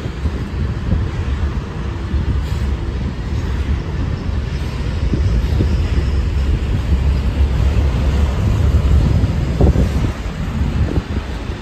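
Covered hopper cars of a freight train rolling past: a steady low rumble of steel wheels on rail, with a few sharper clanks near the end.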